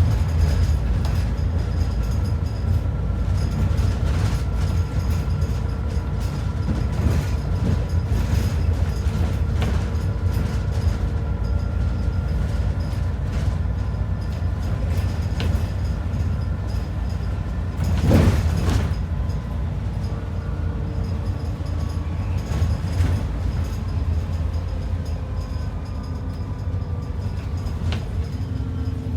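Inside an ADL Enviro 400 double-decker bus on the move: steady engine and road rumble with a faint drivetrain whine that slowly rises and falls in pitch. A single loud thud a little past halfway.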